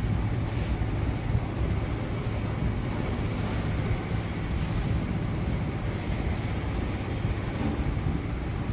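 Hot air rework station blowing steadily, its air turned up, while it heats a phone connector to melt the solder under its pins.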